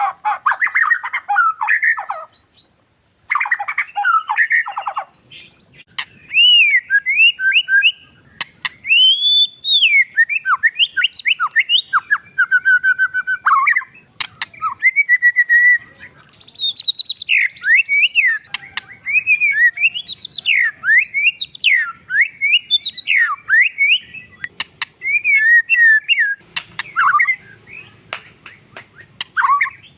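Oriental magpie-robin (kacer) singing: a varied run of loud whistled phrases sweeping up and down, with quick trills near the start and short pauses between phrases.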